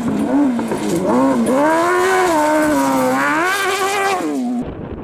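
A competition engine at high revs, its pitch dipping and climbing several times as the driver lifts off and gets back on the throttle, over a hiss of tyres on loose dirt. It cuts off abruptly about four and a half seconds in.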